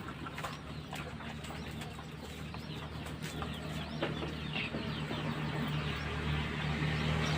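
Small birds chirping in many short, quick calls over a steady low hum that grows louder near the end.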